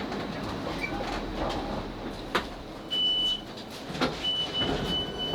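Class 458 electric train running inside the carriage as it slows into a station: low rumble with a few sharp knocks. A steady high-pitched squeal comes in about three seconds in, stops briefly, and comes back about a second later.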